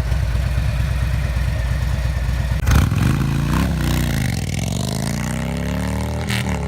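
Harley-Davidson Street Glide's Milwaukee-Eight V-twin running through a Rinehart Racing Slimline full exhaust: a steady pulsing idle, then about three seconds in a sharp bang and the engine revs up and falls back in a few throttle blips, with another short bang near the end.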